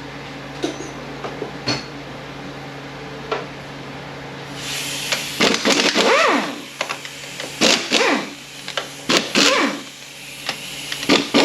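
Power tool, likely an air or electric ratchet, running in several short bursts with a pitch that rises and falls each time as 14 mm bolts are spun out of an automatic transmission case, with clicks and knocks between the bursts. A steady low hum runs underneath.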